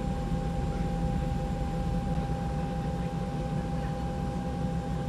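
News helicopter running steadily, heard from inside the cabin: a constant rotor and engine drone with a steady whine.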